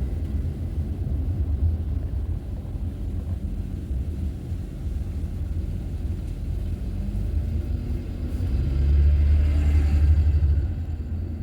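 A car driving on the road, giving a steady low rumble of road and engine noise that swells louder for a couple of seconds near the end.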